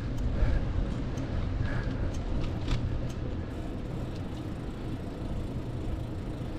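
Steady low rumble of wind buffeting the microphone while cycling, with a few faint clicks on top.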